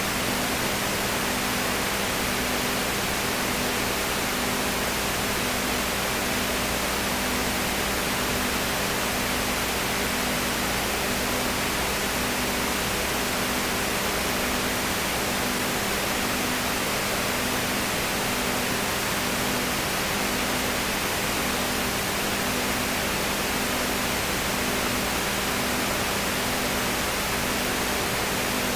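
Steady hiss of static-like noise with a low hum that pulses on and off about once a second.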